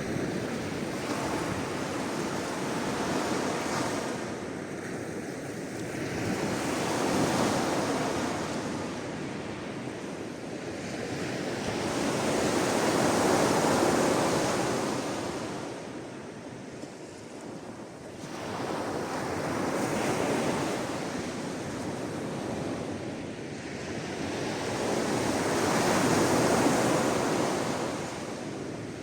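Sea waves washing ashore, swelling and falling back in slow surges every six or seven seconds.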